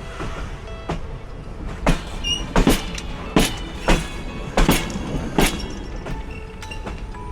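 Train wheels clacking on the track over a steady rumble: a run of sharp, irregular clacks, some in quick pairs.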